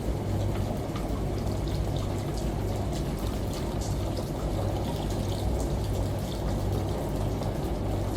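Steady running, pouring water with scattered drips and patters over a constant low hum.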